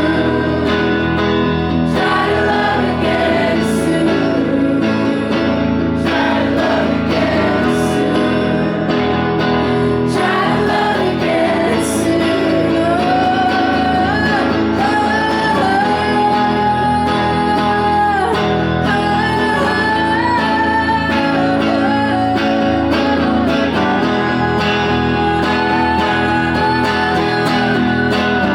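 Live solo performance: a woman singing over her own electric guitar, with the sung melody line held strongest through the second half.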